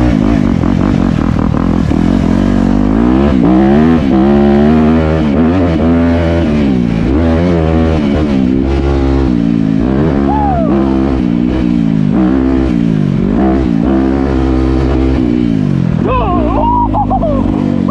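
Dirt bike engine being ridden, its pitch climbing and dropping again and again as the throttle is worked and gears change.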